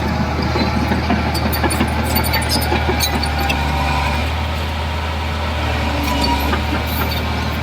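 Heavy diesel engine of a construction machine running steadily, with scattered metallic clanks and squeaks over it.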